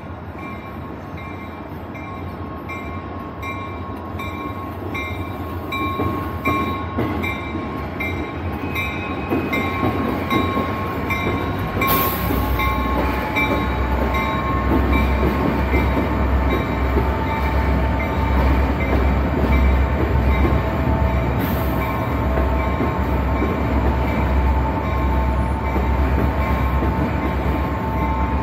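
Canadian National freight train approaching, its rumble growing steadily louder. A bell rings in a steady rhythm, about one stroke every two-thirds of a second, through the first half. From about halfway a deep pulsing rumble sets in, with two sudden loud noises, one near the middle and one about three-quarters through.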